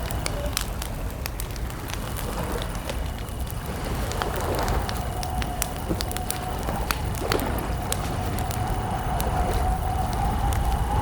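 Wood campfire crackling, with scattered sharp pops and snaps over a steady low rumble. A faint wavering tone sits in the background.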